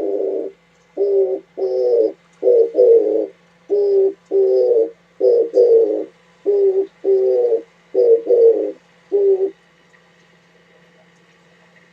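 Oriental turtle dove cooing its low, hoarse song: a rhythmic series of short and long coos, paired again and again, stopping about nine and a half seconds in.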